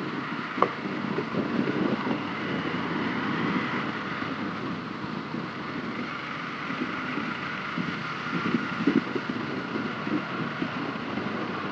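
Hero Xpulse 200 4V's single-cylinder engine running on the move, with wind noise on the microphone. There is a sharp click about half a second in.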